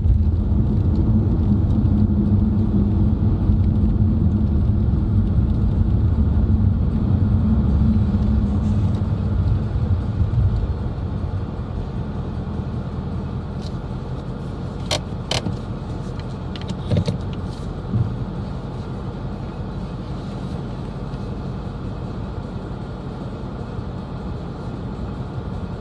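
Steady road and engine rumble heard inside a moving car's cabin, heavier for the first ten seconds and then easing off. A few sharp clicks or rattles come about fifteen seconds in, with small knocks shortly after.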